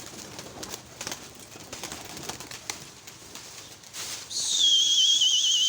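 Domestic pigeons fluttering and cooing faintly. About four seconds in, a loud high warbling whistle starts, wavering quickly in pitch, and holds for about a second and a half before cutting off sharply.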